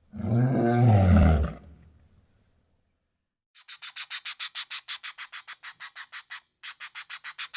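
A deep animal call lasting about a second and a half, its pitch rising and then falling. After a pause come two fast runs of short, dry rasping pulses, about five to seven a second.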